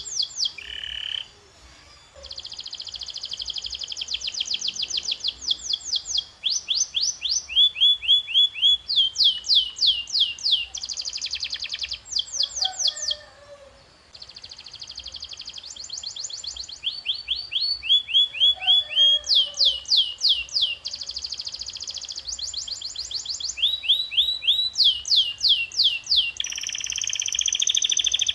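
Canary singing a long song made of fast trills. Each trill is a run of one repeated chirp or sweeping note, and the run changes to a new note and speed every second or two. The song breaks briefly twice and ends on a dense buzzing trill.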